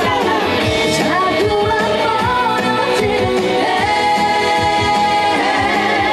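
A woman singing a trot song live, her voice wavering with vibrato and gliding between notes, over a backing track with a steady drum beat.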